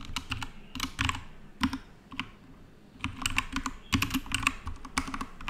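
Typing on a computer keyboard: irregular runs of quick key clicks, pausing briefly about midway.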